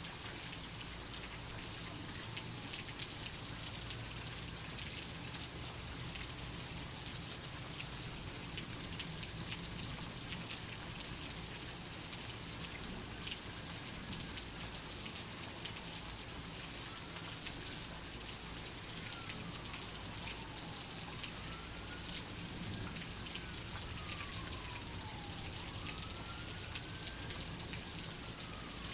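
Steady rain with a dense patter of drops. In the second half a faint, slowly rising and falling wail comes in, like a distant siren.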